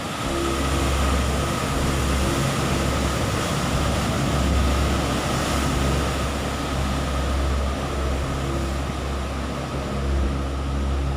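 Steady roar of heavy ocean surf, with wind buffeting the microphone in gusts as a low rumble that comes and goes. A thin, steady high tone runs underneath.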